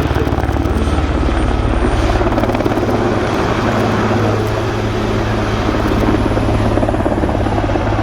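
Helicopter flying a display, its main rotor giving a rapid, steady blade chop over the continuous drone of its turbine engines.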